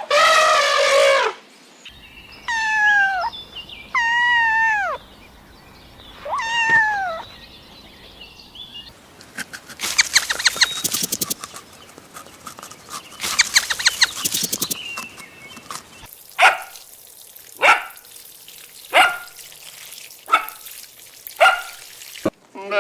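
A run of animal calls: a few falling, pitched whines in the first seconds, two bursts of rapid clicking chatter in the middle, then six short, sharp barks about a second apart near the end.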